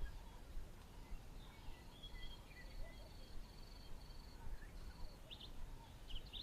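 Faint birdsong: a run of about six short, evenly spaced high notes, with scattered chirps and a quick burst of chirping near the end, over a low background rumble.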